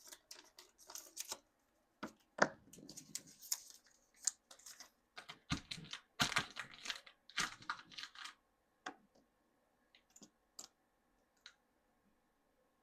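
Small plastic toy packaging crinkling and tearing in short, irregular bursts as a Mini Brands miniature is unwrapped, followed by a few light clicks of small plastic pieces.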